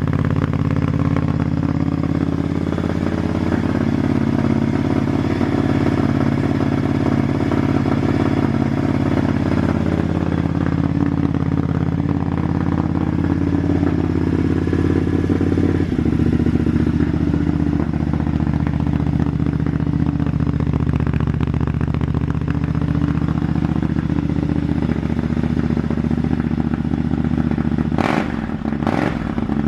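2013 Triumph Scrambler 900's air-cooled parallel-twin engine idling loud and steady through a full Arrow exhaust, just after a cold start with the choke pulled out. About halfway through, the idle settles to a slightly lower note. A few sharp knocks come near the end.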